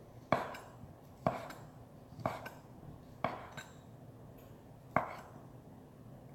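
Kitchen knife chopping sausage on a cutting board: sharp single knocks about once a second, some with a lighter second knock just after, then a short pause before one last knock.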